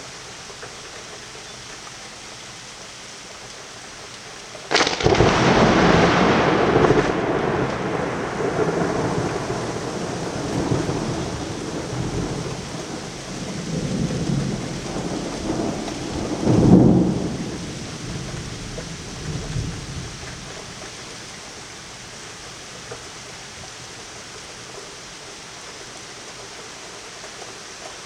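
A thunderclap starts suddenly with a sharp crack and rumbles on for about fifteen seconds, with a second loud peal near the end of the rumble. Steady rain falls throughout.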